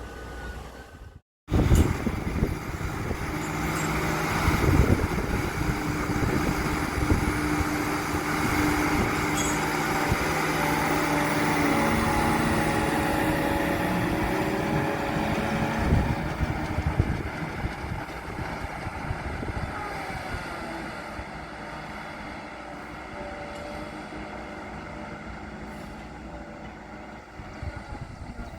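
A heavy rail vehicle running along the track, with an engine drone and the clatter of wheels over the rails. It swells to a peak and then slowly fades away.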